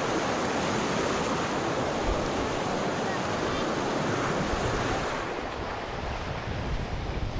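Steady rush of creek water pouring down a natural rock waterslide into a pool.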